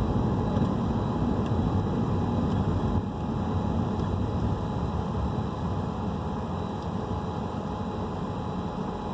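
Steady low rumble of a running car engine heard inside the cabin, easing slightly about three seconds in.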